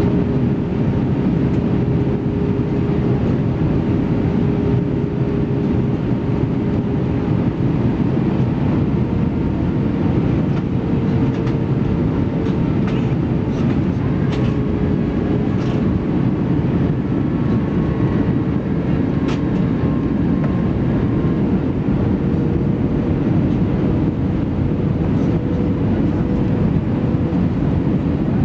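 Steady cabin roar inside an Airbus A320-214 in flight, from its CFM56 turbofan engines and the air rushing past the fuselage, with a steady mid-pitched engine tone running through it. A few faint clicks come through in the middle.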